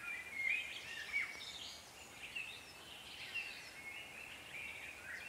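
Birds singing: a quiet, continuous run of short chirps and whistled warbles over faint background hiss.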